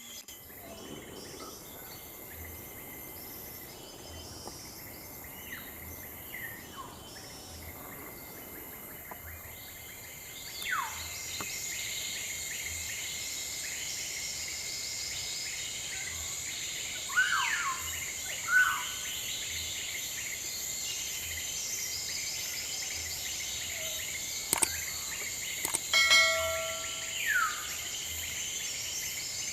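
Tropical forest ambience: a steady high insect drone with several loud, downward-sliding whistled bird calls, and a couple of sharp clicks near the end.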